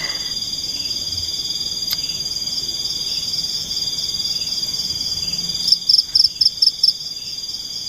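A chorus of forest insects keeping up a steady, high-pitched shrill trill. Near the end one louder call cuts in with about six sharp pulses over a second.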